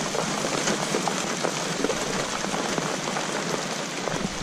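Heavy rain pouring onto a pond's surface: a steady, dense hiss of drops spattering the water.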